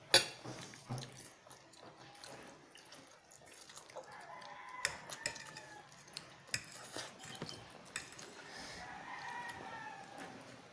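A bird calls twice, each a faint drawn-out call of about a second and a half, a few seconds apart. Under it are a sharp click near the start and light clicks of forks on dishes.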